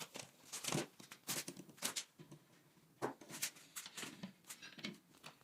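Scattered light clicks and scrapes of hand tools and metal engine parts being handled, at irregular intervals with short pauses between.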